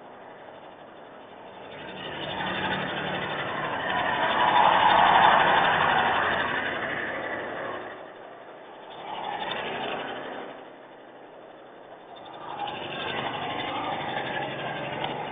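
Vehicles passing one after another on a wet road, their tyre hiss swelling and fading three times, loudest about five seconds in.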